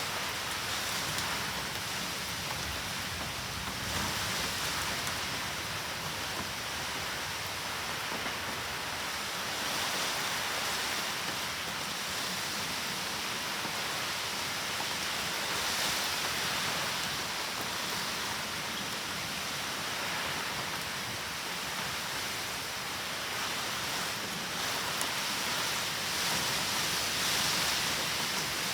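Typhoon rain falling steadily, a continuous hiss that swells and eases every few seconds.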